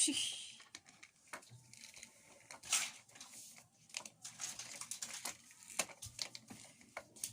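Toy vehicles being handled and moved about: scattered clicks and knocks with rustling, with a louder scraping rush at the start and another about three seconds in.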